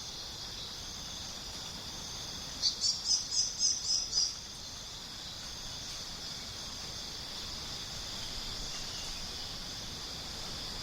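Steady high-pitched chorus of rainforest insects, with a quick run of about eight sharp chirps a little under three seconds in.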